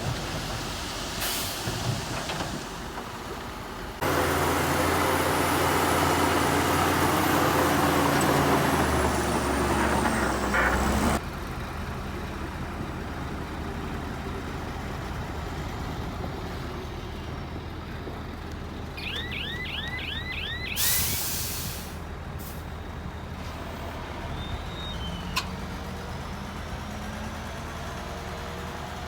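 Heavy diesel engines of a bulldozer and dump trucks running. The engine noise gets much louder for several seconds about four seconds in, then drops back. A short burst of air hiss comes about two-thirds of the way through.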